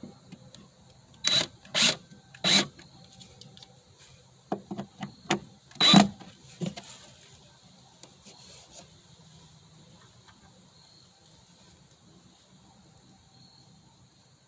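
Sharp knocks on wood as a piece is tapped into place: three hard knocks, then a quicker run of lighter ones ending in the loudest knock about six seconds in, then it goes quiet.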